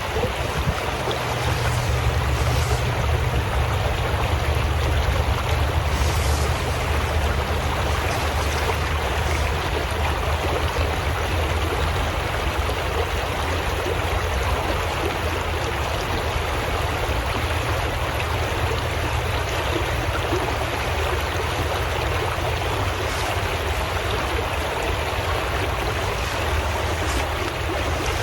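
Steady rushing of flowing water, like a creek, with a low rumble underneath.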